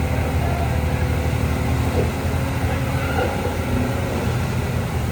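Diesel engine of heavy earthmoving machinery running steadily, a low, even drone.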